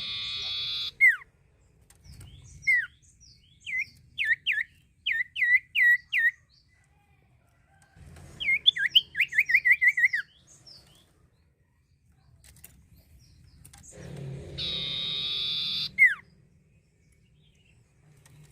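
Small songbird calling in short, sharp, down-slurred chirps, spaced at first and then in a fast run of about a dozen about halfway through. Twice, once at the start and once near the end, a loud steady buzzing tone lasts about a second and a half, each time ending in a single downward chirp.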